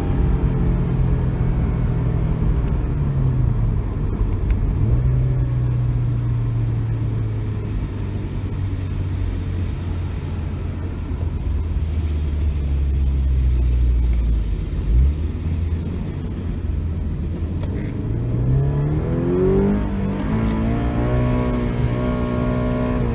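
Toyota 86's flat-four engine and Kakimoto Class KR aftermarket exhaust heard from inside the cabin while driving with the automatic gearbox. The engine note dips and climbs again a few seconds in, holds steady through the middle, then rises steadily under acceleration near the end before dropping off sharply.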